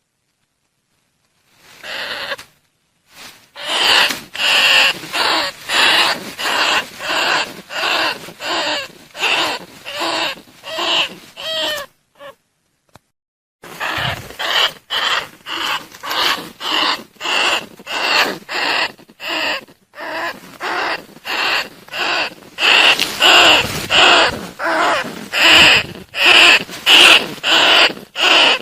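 Bandicoot rat calls, a lure recording used to attract rats: short calls repeated about twice a second, starting about two seconds in, with a pause about twelve seconds in before the calling resumes and grows louder near the end.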